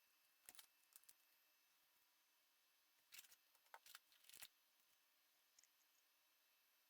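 Near silence, broken by a few faint, sharp clicks and light clatters: a couple about half a second to a second in, and a quick cluster around three to four seconds in.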